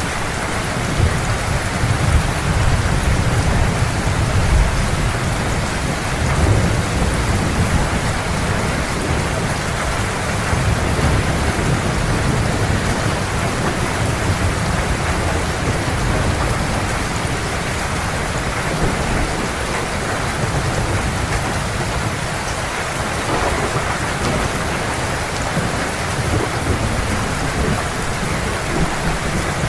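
Heavy rain pouring steadily, with a low rolling rumble of thunder underneath that swells and eases, strongest in the first half.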